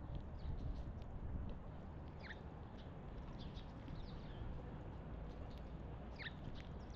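Small wild songbirds chirping now and then at a feeding spot, in short calls, with a sharper sweeping chirp about two seconds in and another near the end. A steady low rumble runs underneath.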